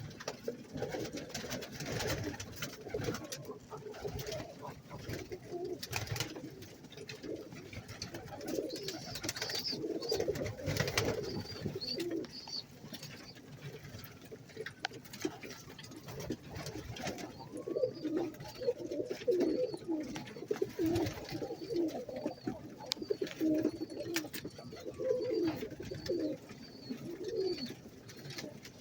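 Domestic pigeons cooing in a loft, many short low calls overlapping, with scattered sharp clicks and knocks. A series of faint, high, repeated cheeps runs through the middle and later part.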